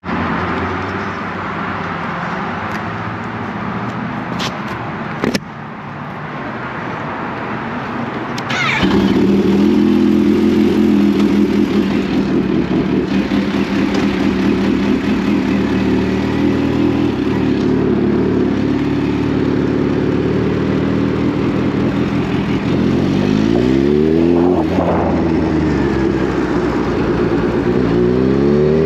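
Kawasaki Z H2's supercharged inline-four engine running, quieter with a few sharp clicks over the first nine seconds, then suddenly louder and steady. About 24 seconds in the revs rise and fall, and near the end they climb again as the bike accelerates.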